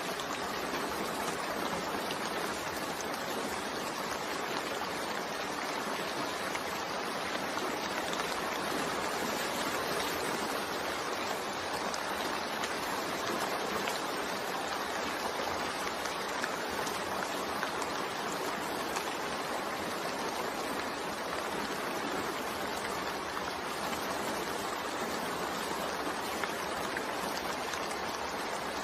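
Steady rain falling, a continuous even hiss with no pauses or distinct drops standing out.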